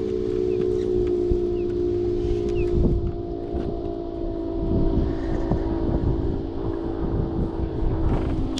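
A boat motor running steadily with an even hum, with wind buffeting the microphone.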